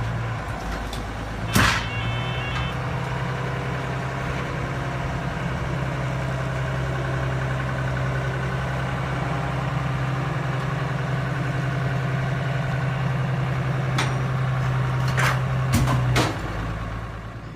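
A motor running with a steady, even hum. It starts with a click about a second and a half in, and a few clicks come just before it cuts off near the end.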